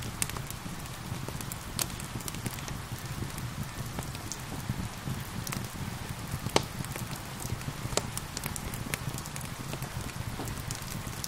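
Wood fire crackling with irregular sharp pops, the loudest about six and a half seconds in, over a steady hiss of gentle rain.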